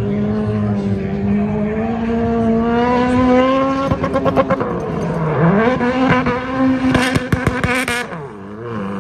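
Car engine revving hard and held at high rpm, its pitch slowly climbing, dipping briefly about five seconds in, and breaking into rapid stuttering twice, around four seconds in and again near the end.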